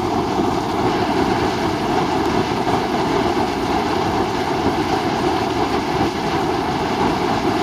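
Steady roar of a waterfall: dense, even rushing water at a constant loud level.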